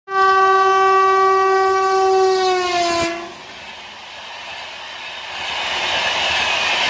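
Electric locomotive's air horn sounding one long, loud blast that falls slightly in pitch and stops about three seconds in. Then the rushing rumble of LHB passenger coaches passing at speed grows louder.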